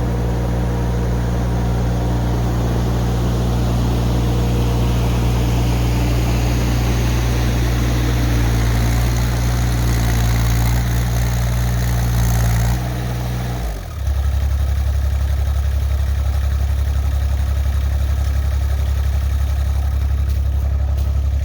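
Mini excavator engine running steadily as the machine climbs through a snowbank. About 13 seconds in its note drops suddenly, then settles into a steady, lower hum.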